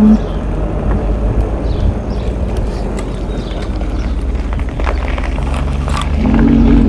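Engwe Engine Pro e-bike's 750-watt hub motor whine cutting off at the start as the bike coasts, leaving steady wind and road noise with a few light clicks and rattles. About six seconds in, the motor whine comes back and rises in pitch as the motor pulls under power again.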